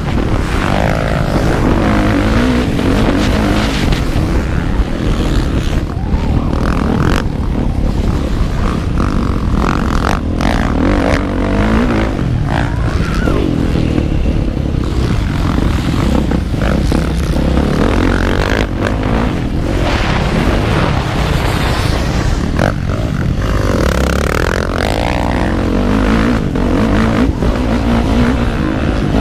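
Motocross bike engine heard from the rider's seat on a practice lap, its pitch climbing and dropping again and again as the throttle is opened and shut, with scattered knocks and thuds from the bike over the track.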